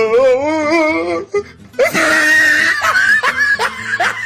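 A person's hysterical laughter: a high wavering laugh, a shrill wheezing shriek about two seconds in, then a run of short rising bursts of laughter.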